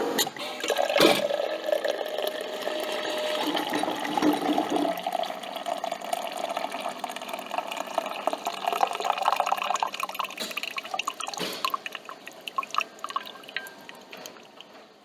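Coffee machine falling quiet after its pump stops, with a sharp click about a second in, then coffee dripping and trickling into the cup, slowly tapering off.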